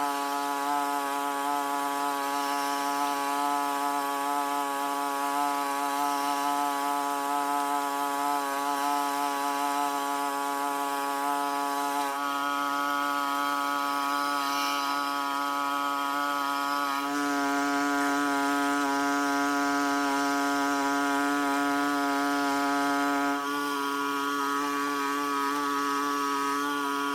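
A small high-revving engine running steadily. Its pitch and level step up a little for about six seconds past the middle, then drop back.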